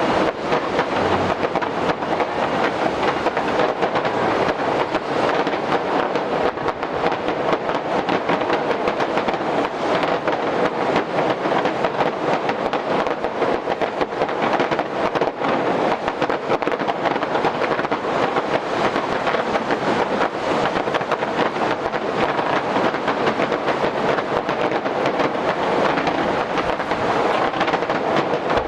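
Fireworks display in a dense, unbroken barrage: rapid bursts and crackling packed so tightly they merge into one steady rumble.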